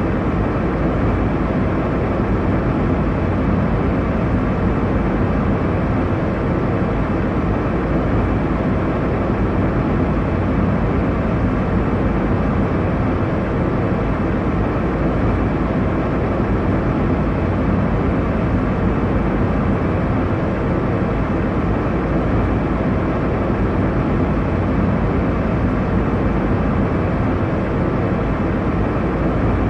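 Airliner cabin noise: a steady, deep rush of engine and airflow noise heard from inside the cabin, unchanging throughout.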